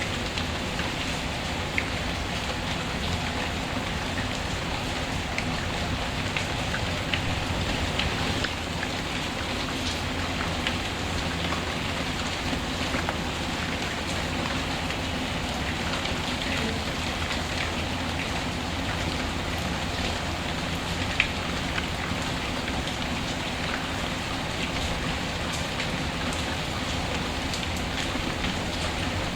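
Steady rain falling, mixed with the scattered light crackles and pops of a wood fire; one sharper pop about two-thirds of the way through.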